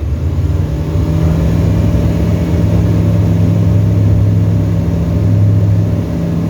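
Tecnam ultralight's piston engine and propeller droning steadily in flight, heard loud inside the cockpit. The pitch rises slightly about a second in, then holds steady.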